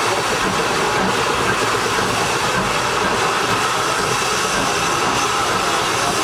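A Schynige Platte Bahn rack-railway train running, a continuous even rumble and rattle with no breaks.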